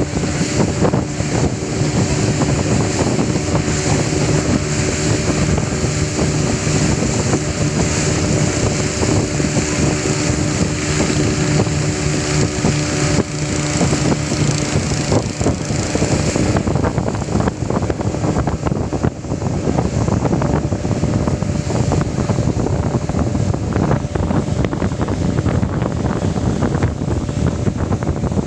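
Motorboat engine running steadily under heavy wind buffeting on the microphone. A little past halfway the engine's steady hum mostly drops away, leaving mainly the wind noise.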